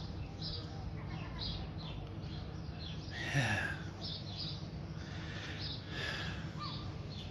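Small birds chirping repeatedly over a steady low background rumble, with one louder falling call a little over three seconds in.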